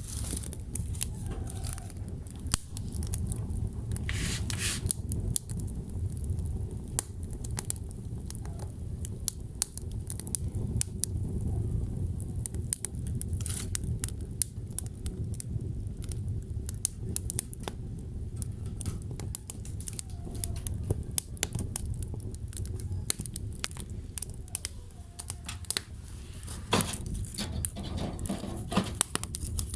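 Wood fire crackling: irregular sharp pops and snaps over a steady low rumble of the flames, with a brief rush of hissing about four seconds in and again near the end.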